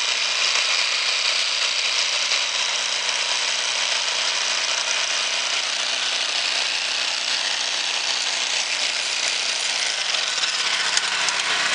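Brand-new Champion 3650-watt portable generator running steadily, fresh from its first-pull cold start.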